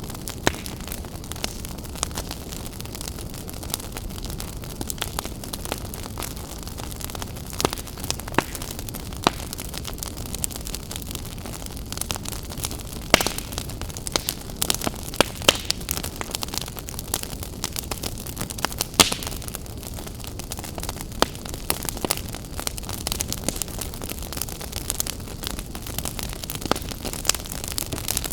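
Wood fire burning in an open fireplace: a steady low rush of flames with irregular crackles and sharp pops, a few louder snaps about halfway through and later on.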